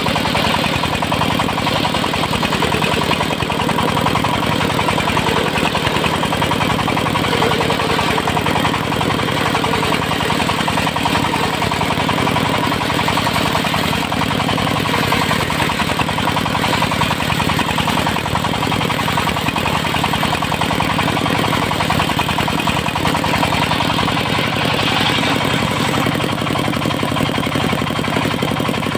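Engine of a portable circular-saw sawmill running steadily and loudly, without pauses or sharp changes.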